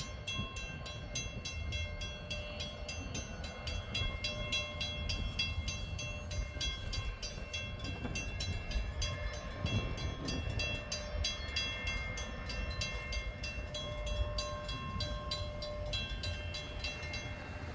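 Diesel freight locomotive moving a string of freight cars: a low engine rumble, steady metallic squealing tones that come and go, and a rapid, even clicking of about five a second.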